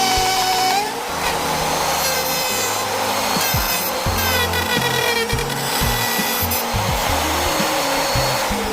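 Router cutting into a wooden guitar body for a pickup cavity, its motor whine dipping and recovering in pitch as the bit bites, over background music.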